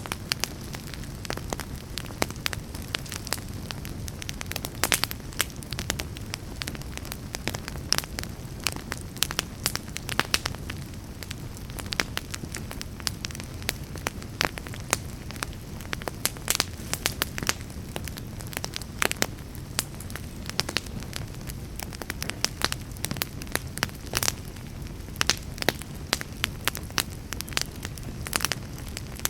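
Fireplace fire crackling: frequent, irregular sharp pops and snaps over a low, steady rush of burning.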